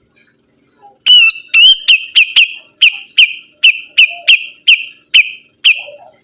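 A songbird calling loudly in a fast series of about fourteen repeated notes, starting about a second in. Each note is a sharp downward-sweeping whistle with a short buzzy tail, at roughly two to three notes a second.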